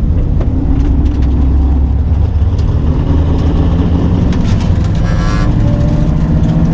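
Fox-body Mustang 5.0 V8 running steadily at low speed with a loud, even low rumble.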